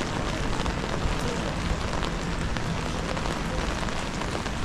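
Steady rain, with many small sharp ticks of raindrops striking an umbrella held just overhead.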